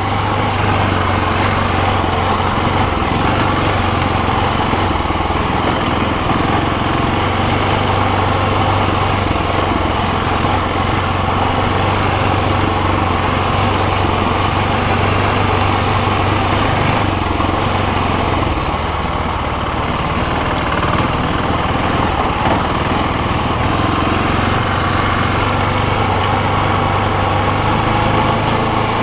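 BMW G650X Challenge's single-cylinder engine running steadily under way, heard close-up from a camera on the bike. It is briefly a little quieter about two-thirds of the way in.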